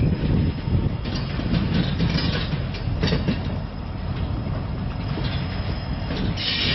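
Flatcars of a freight train loaded with military vehicles rolling slowly past: a low rumble of steel wheels on rail with scattered clicks and knocks, and several brief high-pitched wheel squeals, the loudest near the end.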